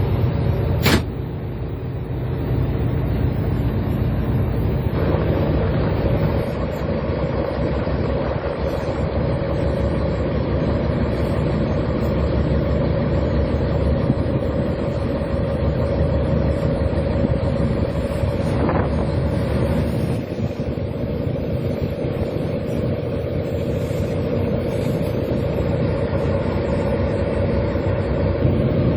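A fishing boat's engine running steadily, a continuous low drone with a hum, and a short sharp click about a second in.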